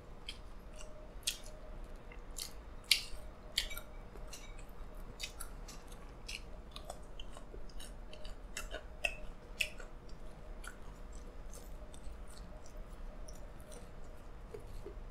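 Close-miked chewing of pizza with the mouth closed: a string of small wet clicks and crunches, thickest over the first ten seconds and sparser after that.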